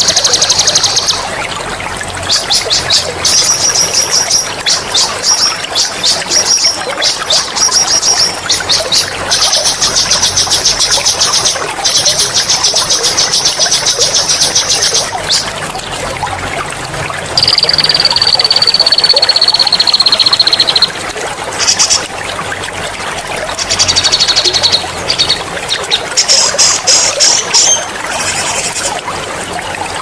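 Songbird singing loud, rapid high rolling trills in repeated phrases, with one long, slightly falling whistle about midway, over a steady trickle of running water.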